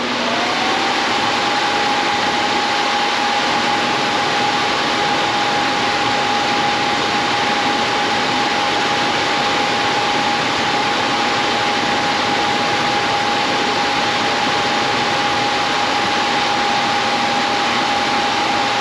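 Electric blower motor driving the squirrel-cage fan of a Coleman Presidential II furnace, run on the bench with the fan freshly mounted: it comes up to speed in the first second with a rising whine, then holds a steady tone over a loud rush of moving air.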